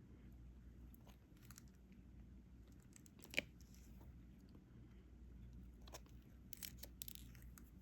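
Faint, sparse clicks and crackles of a diamond painting pen pressing drills onto the sticky canvas, with one sharper click about three and a half seconds in and a few more around six to seven seconds in.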